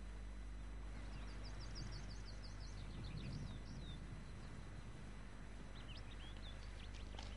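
A small songbird singing a quick run of high, repeated chirps lasting about three seconds, then a shorter phrase near the end, over a steady low background hum.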